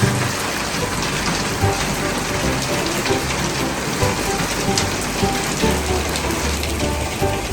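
Steady rain falling and splashing on surfaces, with short musical notes sounding under it.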